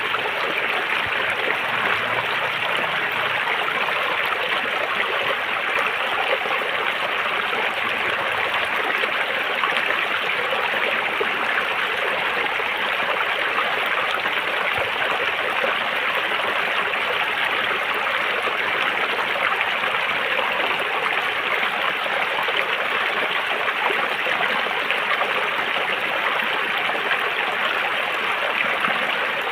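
River water flowing over rocks: a steady rushing and trickling with no change.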